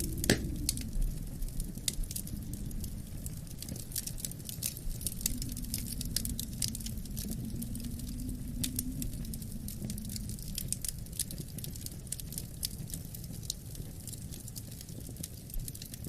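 Wood fire crackling in a fireplace, with many sharp pops and one louder snap just after the start, over a low wind moaning that rises and falls in pitch.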